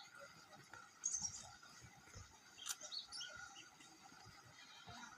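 Small birds chirping: a few short, high chirps, scattered and quiet.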